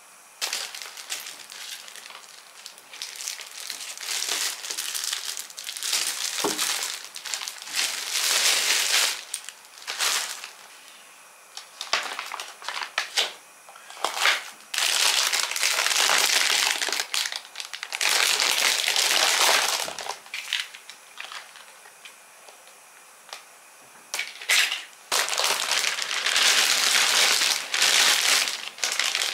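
Packaging being handled close up: repeated crinkling and rustling in stretches of one to three seconds, with a few short clicks in between.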